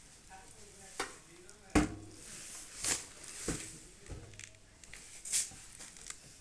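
Sharp clicks and knocks, about six of them spread over a few seconds, the loudest about two seconds in, from a microwave oven door being fitted onto the oven body.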